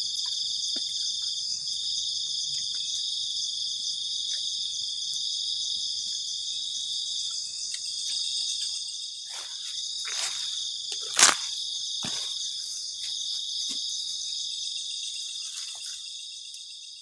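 Dense chorus of crickets at night, a steady high trilling, with a few sharp cracks about halfway through, the loudest a little past the middle; the whole fades out at the end.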